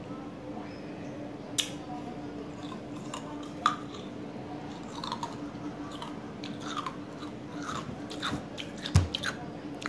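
A person chewing and biting an ice pop close to the microphone, with scattered short sharp crunches and clicks; the loudest comes near the end with a low thump.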